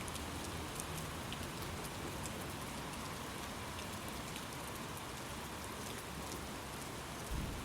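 Steady rainfall, an even hiss with many small drop ticks. A brief low thump comes near the end.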